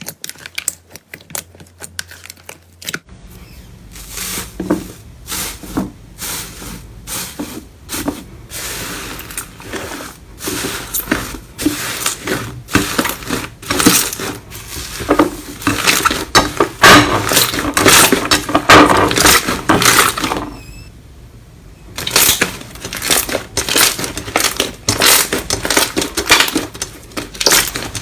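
Slime being handled and squeezed by hand, making a dense run of crackling, popping clicks. The clicks thin out in a short lull about three quarters of the way through.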